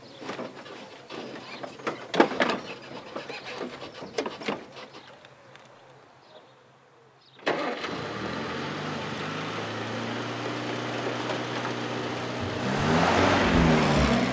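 Knocks and clatter of someone climbing into an open car and handling its controls, then an Austin 10's four-cylinder side-valve engine starts suddenly about seven and a half seconds in and idles steadily. Near the end it revs up and gets louder as the car pulls away.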